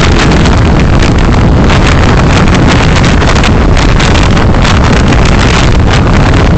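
Loud, steady road and wind noise of a car being driven, picked up by a dashcam microphone, with frequent brief crackles.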